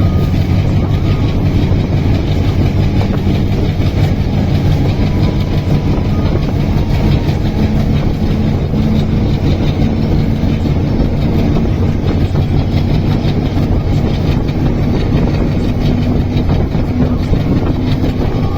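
Train running on the rails: a loud, steady rumble with a low hum that slowly rises in pitch.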